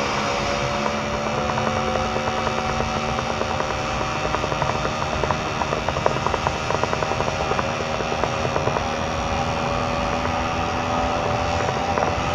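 Two-stroke motorcycle engine running under way at a steady cruise, its pitch slowly rising, with wind and road noise.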